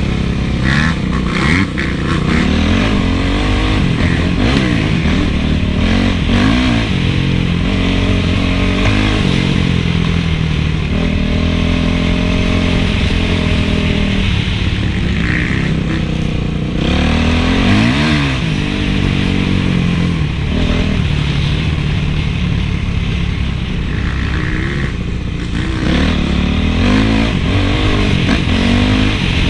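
Honda CRF450 four-stroke single-cylinder motocross engine being ridden hard, revving up and down over and over, its pitch climbing and dropping with throttle and gear changes.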